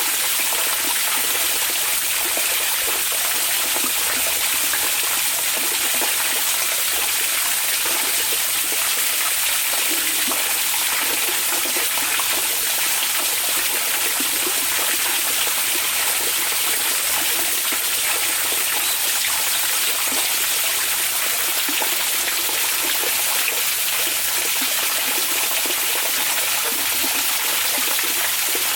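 Hot spring water flowing and trickling steadily: an even, unbroken rushing hiss that is strongest in the high range.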